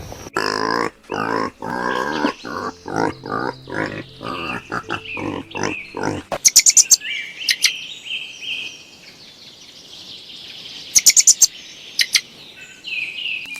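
An animal calling in short, repeated pitched calls for about six seconds, then birds chirping, with two quick rattling bursts of clicks.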